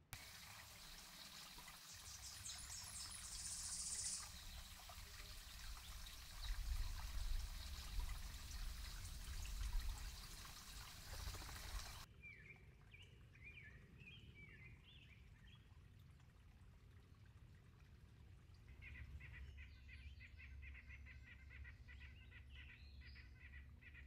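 A steady rushing hiss with low rumble cuts off about halfway through. Then a few short bird chirps come, and near the end a rapid series of short rising bird notes.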